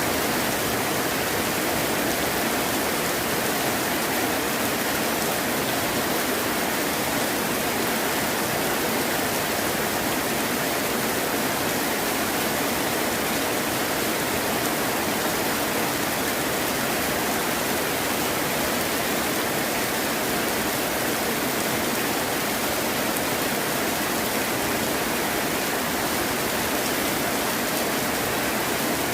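Heavy rain falling steadily: an even, unbroken hiss with no thunder claps.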